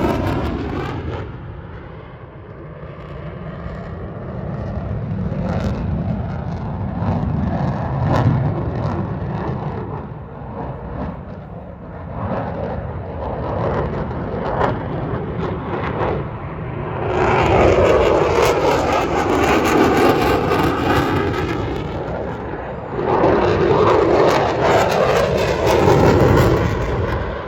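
Airplane flying by, its engine noise rising into two loud passes in the second half, each with a sweeping, phasing tone as the aircraft goes over.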